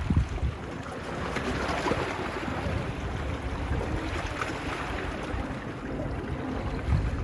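Small waves washing on a beach, with gusts of wind buffeting the microphone at the start and again near the end.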